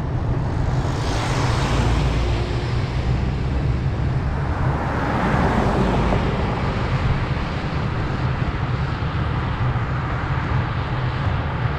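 Steady low road rumble as motor vehicles overtake close by: one pass swells and fades about a second in, and a louder one around five seconds in.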